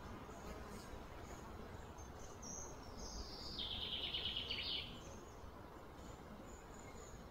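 A bird calling: a fast trill that drops in pitch, starting about two and a half seconds in and stopping about two seconds later, over steady low background noise with faint high chirps.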